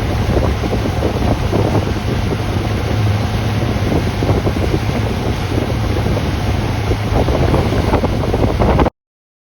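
Wind buffeting the microphone over the steady drone of a tow boat's motor running at speed across the water. The sound cuts off abruptly near the end.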